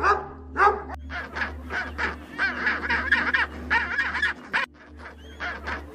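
A German Shepherd barks once near the start. Then penguins call in a fast run of short honking, braying calls, several a second, which thin out near the end.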